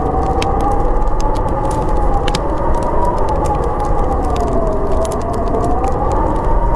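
Howling storm wind, its whistling pitch slowly rising and falling over a steady rush, with the scattered crackle of a fire.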